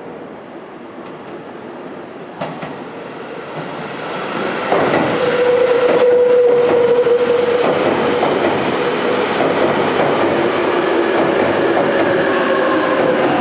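Tobu 20000 series electric train running into a station round a sharp curve, growing loud as the cars reach the platform about five seconds in. Wheel clatter goes with a held whine that then slides slowly down in pitch as the train slows; there is one sharp clack a couple of seconds before the train arrives.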